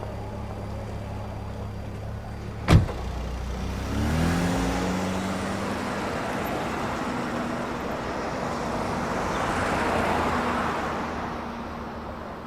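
A single sharp knock about three seconds in, then a car engine starts with rising pitch and a car is heard driving, louder around ten seconds in before fading.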